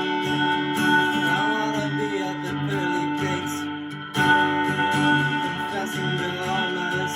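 Live band music with guitar and sustained held tones, improvised; it thins out about four seconds in and comes straight back in.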